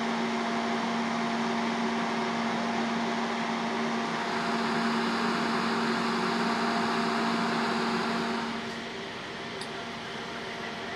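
Steady mechanical hum of a running motor-driven machine, with a constant low tone under a loud airy rush. About eight and a half seconds in, the rushing drops away and the hum carries on more quietly.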